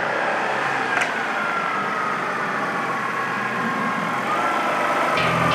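Motor vehicle running, with a whine that falls slowly in pitch, jumps back up about four seconds in and falls again. A deeper engine rumble comes in near the end.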